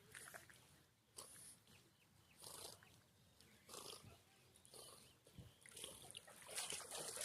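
A rottweiler breathing in short, faint puffs, about one every second and a bit.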